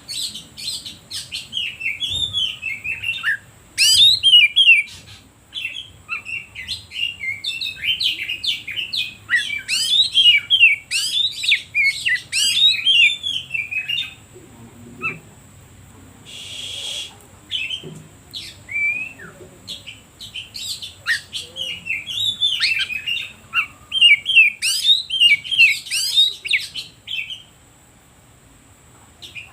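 Oriental magpie-robin (kacer) singing a fast, varied song of short whistled notes and chatter, used as bait song to make other magpie-robins sing. The song pauses briefly about halfway and again near the end.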